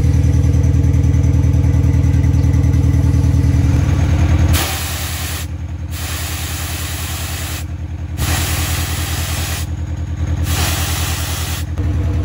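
Modified turbo-diesel Isuzu D-Max engine idling with a steady low, rhythmic pulse. About halfway in, a loud hiss joins it and cuts out briefly several times before stopping near the end.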